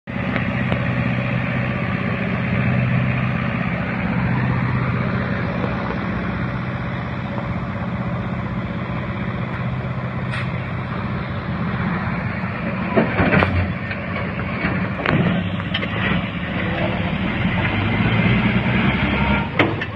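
Truck engine running steadily with road noise, with a few sharp knocks or rattles in the second half.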